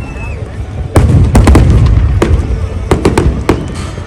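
Fireworks display: a string of sharp bangs from bursting shells, about eight, in clusters from about a second in, over a continuous deep rumble of further explosions. A whistle trails off right at the start, and a crackling fizz follows near the end.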